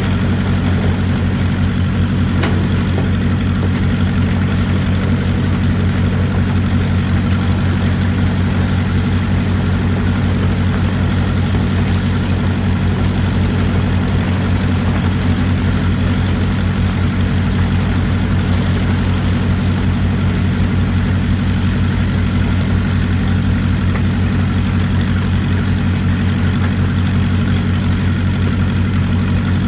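Excavator's diesel engine running steadily with a low, even drone, over a constant hiss of running water.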